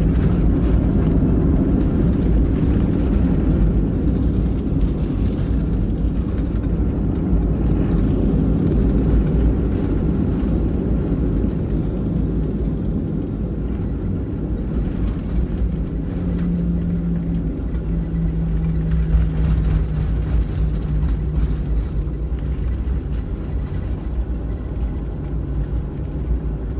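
Cabin noise inside a Boeing 737-700 on the ground after landing: the steady low rumble of its CFM56 engines and rolling wheels. It is loudest in the first seconds, then eases slightly, with a steady hum joining for a few seconds past the middle.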